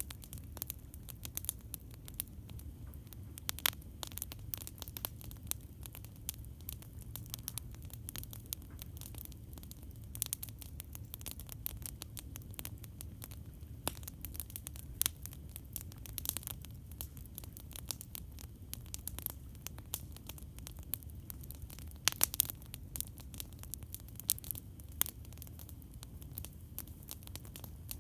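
Campfire crackling: irregular sharp pops and snaps, a few louder ones around the middle and near the end, over a steady low rumble.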